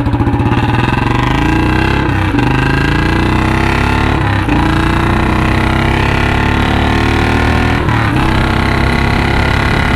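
Royal Enfield Bullet 350 single-cylinder engine running through a straight C-bend long 'Punjab' exhaust, revved hard under full-throttle acceleration. It is loud, and its pitch climbs, drops at a gear change about two seconds in, and climbs again, with further shifts at about four and a half and eight seconds.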